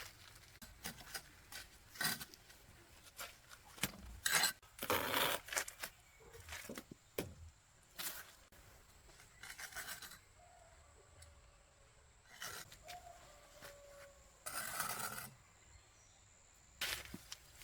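Irregular scrapes and knocks at uneven intervals, some short and sharp, a few longer rasping strokes.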